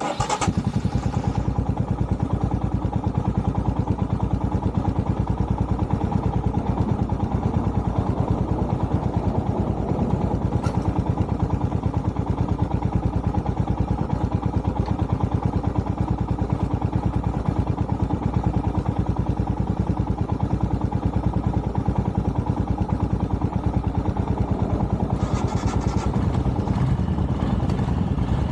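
Motorcycle engine starting abruptly and then running steadily with an even, rapid beat and unchanging pitch.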